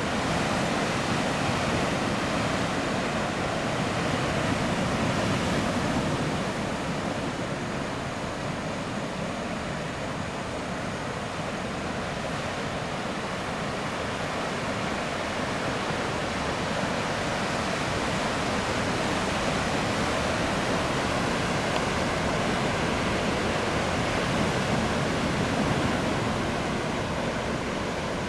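Continuous roar of heavy ocean surf from a typhoon swell, with breaking waves that swell louder in the first few seconds and again about three-quarters of the way through.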